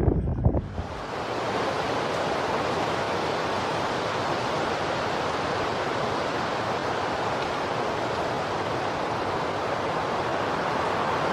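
Strong wind rushing steadily over the microphone, an even, unbroken roar that sets in about half a second in.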